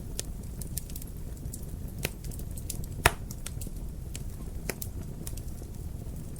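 Wood fire crackling in a fireplace: a steady low rumble of flame with scattered sharp pops and snaps, the loudest about three seconds in.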